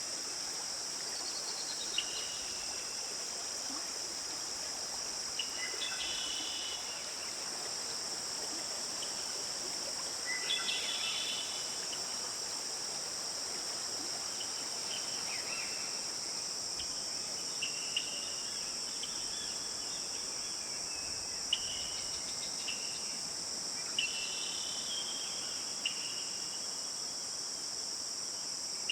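Steady, high-pitched insect chorus of crickets, with short bird chirps and calls breaking in every few seconds.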